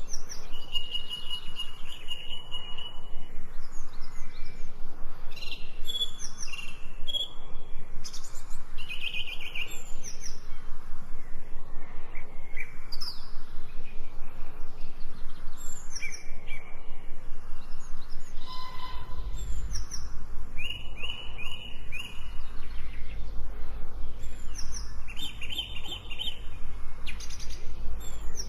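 Several birds chirping and singing, short calls and trills overlapping over a steady background hiss. A low rumble comes in about two-thirds of the way through.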